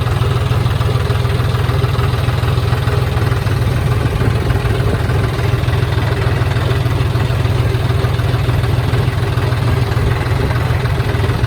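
John Deere 5039D tractor's three-cylinder diesel engine running steadily at a constant speed.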